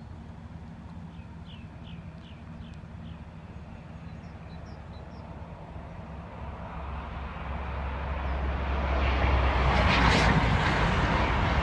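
A train approaching the level crossing: a rumble that swells from about six seconds in to a loud roar around ten seconds in and stays loud.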